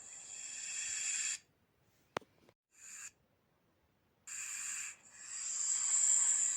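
Snake hissing in long, drawn-out hisses. The hiss breaks off about a second and a half in, leaving a gap with a single sharp click and one short hiss, then starts again and swells near the end.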